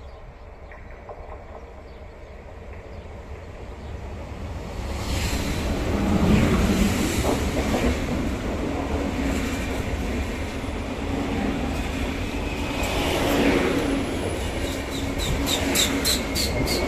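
Two coupled Renfe S-448 electric multiple units run into the station and pass close by: a rising rumble of wheels on rail as they arrive, then a steady low hum. Near the end comes a quick run of about five wheel clicks a second over the rail joints.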